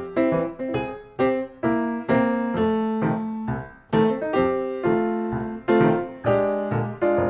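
Piano music: single notes and chords struck at a moderate pace, each ringing and fading before the next.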